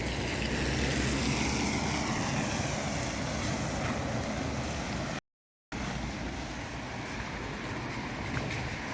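Traffic on a wet road: a steady hiss of tyres on wet tarmac with the low hum of passing vehicles' engines, strongest in the first two seconds. The sound cuts out completely for about half a second a little past the middle.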